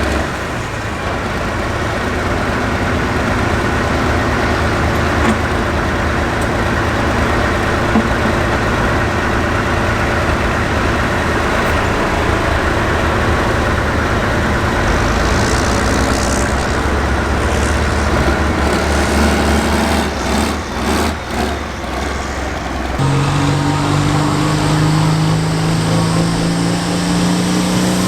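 Hot farm pulling tractor's diesel engine running loud and hard under load as it pulls the sled. About three-quarters of the way through the sound changes abruptly to an engine whose pitch rises steadily.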